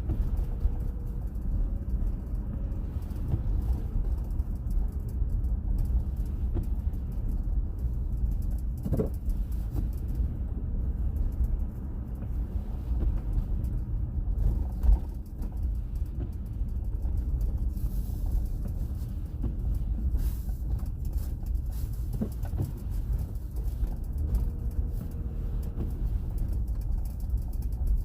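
Steady low rumble of a car driving, with a couple of faint knocks.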